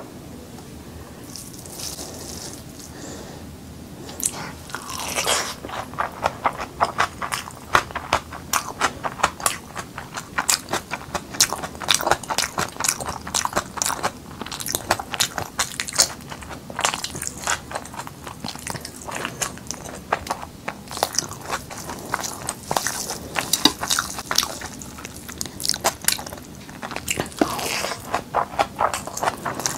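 Close-up eating sounds: chewing and biting on handfuls of fried rice and meat eaten by hand. The first few seconds are quieter, then from about four seconds in comes a dense run of quick mouth clicks.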